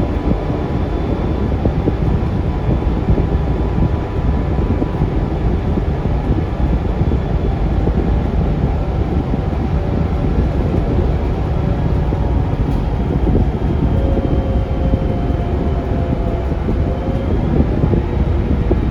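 Scania K360UA articulated bus running on the road, heard from inside the cabin: a steady low rumble from its Scania DC9 engine and driveline. A faint whine drifts down, then rises again near the end.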